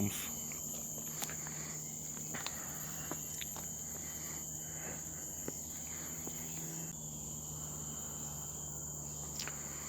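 Steady, high-pitched insect chorus in tropical secondary forest, an unbroken shrill drone, with a few faint light clicks.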